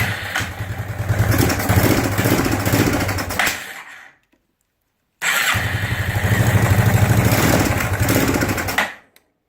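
ATV engine turned over by its electric starter in two bouts of about four seconds, with a rapid even pulsing and a pause of about a second between them; each bout stops abruptly as the button is released, the engine not yet catching and running on its own.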